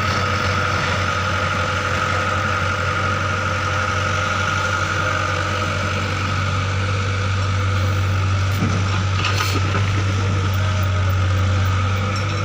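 A heavy engine, from the tractor or digging machine, running steadily with a constant low hum and a steady whine above it, with a couple of light knocks about nine seconds in.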